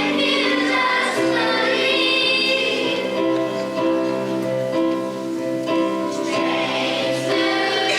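High school choir singing a song, the voices holding sustained notes.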